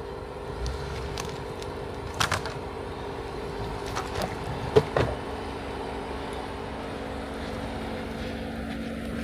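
Jeep Wrangler engine running steadily at low speed, with a few sharp knocks about two seconds in and again around five seconds in.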